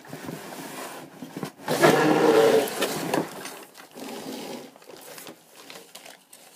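Newspaper wrapping rustling and crinkling as it is pulled out of a cardboard toy box and unwrapped, with a louder burst of rustling about two seconds in.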